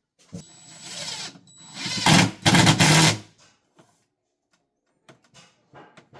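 A power tool's motor running for about three seconds, louder for its last second, then stopping; a few faint knocks follow.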